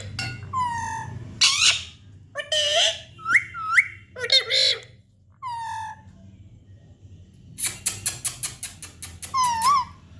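A young pet parrot calling in a string of short, high squawks that glide up and down, with a quick run of sharp chirps near the end.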